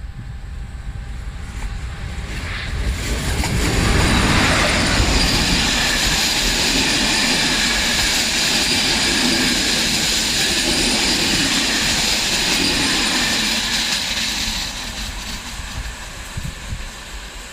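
Passenger train passing on the track: wheel and rail noise swells over the first few seconds, holds steady and loud, then fades near the end.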